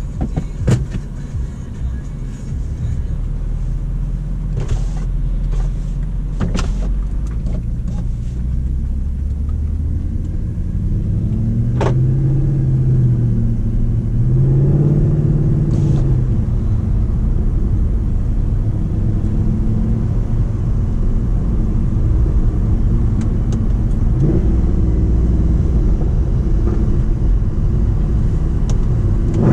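Mercedes C63's naturally aspirated 6.2-litre V8, stage-2 tuned with the catalytic converters deleted, running with a deep rumble that grows steadily louder. Its note swells up and down briefly around the middle, with a few sharp clicks in the first half.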